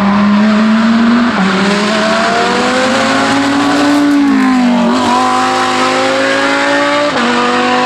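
Race car engine under hard acceleration, its pitch climbing through each gear and dropping sharply at gear changes about a second and a half in and again near the end, with a brief sag in revs midway.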